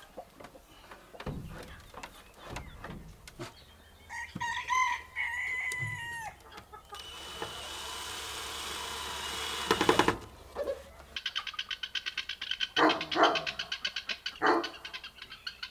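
A rooster crowing once, a single long call about four seconds in. It is followed by a few seconds of hissing that swells and stops sharply, then a rapid fine pattering.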